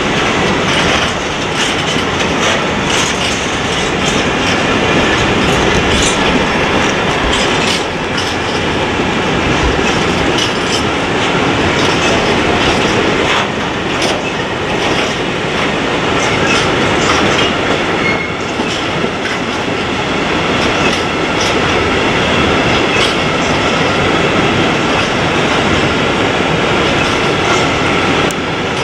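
Freight train of open-top wagons rolling past close by, its wheels clicking steadily over the rail joints. A brief high wheel squeal comes about two-thirds of the way through.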